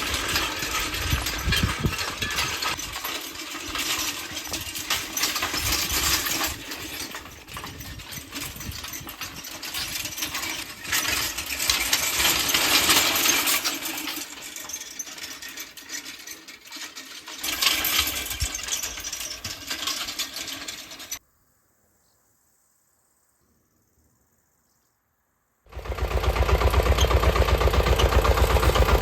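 Uneven clattering and knocking for most of the time, a few seconds of silence, then an engine starts running steadily with an even pulse near the end.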